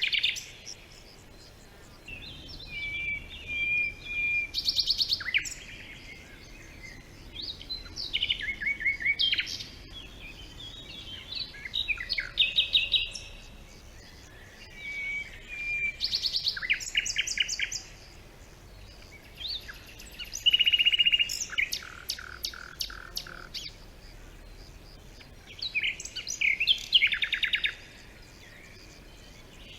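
Songbirds singing: bursts of rapid chirps and trills a second or two long, repeating every few seconds with short pauses between.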